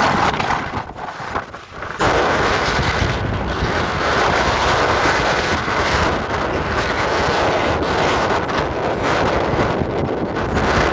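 Strong wind buffeting the microphone as a loud, even rush. It jumps up sharply about two seconds in and then blows steadily.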